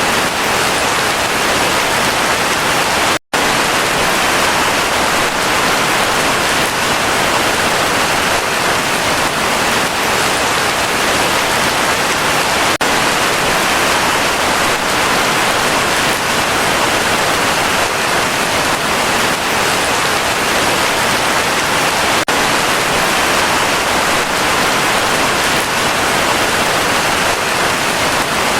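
Heavy rain falling steadily, a dense, even hiss with no thunder. The sound cuts out for an instant about three seconds in.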